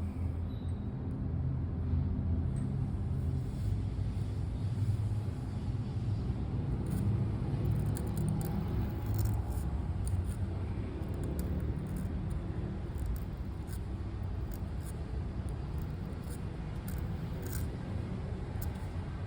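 A steady low rumble of background ambience, with faint, irregular scratches of a pen nib on paper over it.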